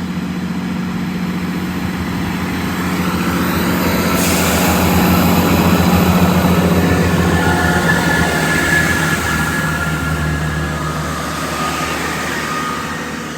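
Class 166 Turbo diesel multiple unit moving past with its diesel engines humming and wheels rumbling on the rails, getting louder to about six seconds in and then fading. Thin wheel squeal rings out near the middle of the passage.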